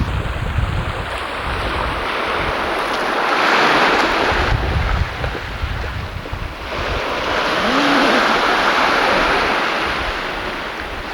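Sea waves washing in, swelling and breaking twice, with wind rumbling on the camcorder microphone.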